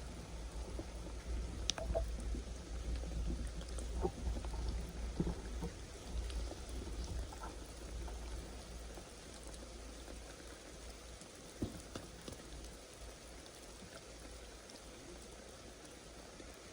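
Rain falling steadily, with scattered single drops tapping sharply over a low rumble; it gets quieter about halfway through.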